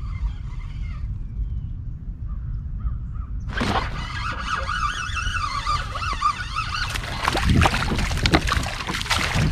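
Wind rumbling on the microphone and faint bird chirps, then from about three and a half seconds a loud, wavering bird call lasting a few seconds, followed by a run of short knocks and splashes near the end.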